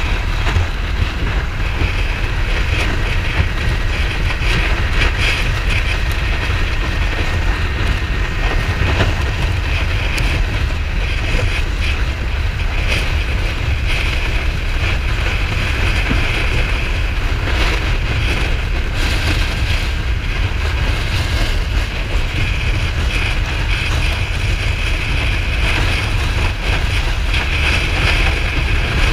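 Steady wind rush over the microphone and road noise from a Kawasaki Ninja 400 riding at speed, its parallel-twin engine running underneath.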